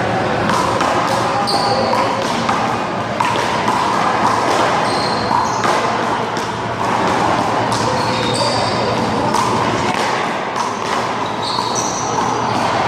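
One-wall handball play: a rubber handball smacking off the wall, players' hands and the pavement in quick, irregular impacts, with short high squeaks and background voices.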